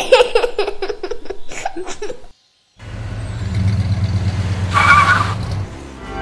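Car engine sound effect as the toy police car drives off: a low, steady rumble that starts after a short gap of silence about three seconds in, with a brief higher tone near the end. Children's voices are heard in the first two seconds.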